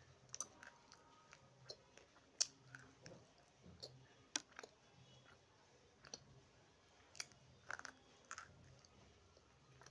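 Irregular sharp crunching clicks of someone biting and chewing small hard pieces of dry clay close to the microphone.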